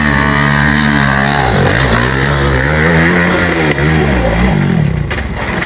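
Off-road motorcycle engine revving under load, its pitch dropping and climbing again several times before it falls away about five seconds in.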